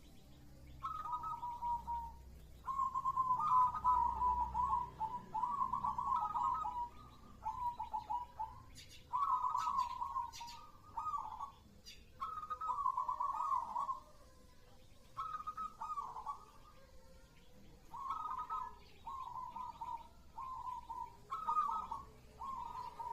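Zebra dove (perkutut) cooing: a long run of rolling, stuttering coo phrases, each a second or two long, with short pauses between them.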